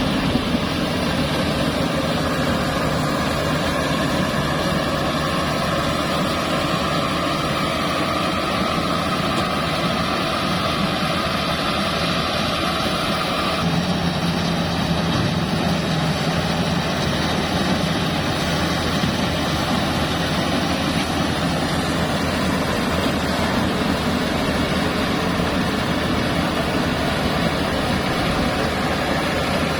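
Bimo Plus mobile rice thresher running: a loud, steady engine and machine drone. About halfway through, a high whine drops out and a lower hum takes its place.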